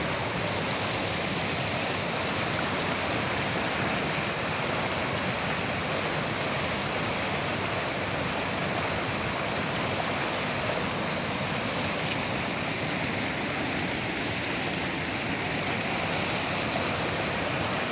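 Waterfall in heavy flood flow: a steady, even rush of falling water.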